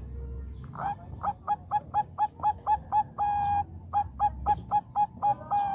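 Zebra dove (Bangkok perkutut) singing: a rapid run of short, clipped coos, about five a second, broken by one longer held note partway through and ending on another drawn-out note.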